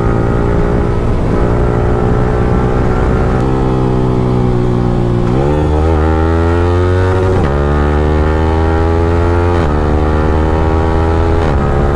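Yamaha R15M's 155 cc single-cylinder engine through an Akrapovic free-flow exhaust, heard while riding: a steady loud exhaust note, then acceleration in which the engine pitch climbs and drops suddenly at each of several quick upshifts.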